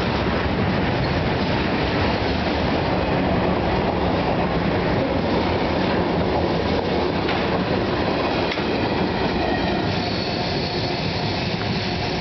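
CSX freight train's hopper and tank cars rolling past at speed: a steady, loud rumble and rattle of steel wheels on rail.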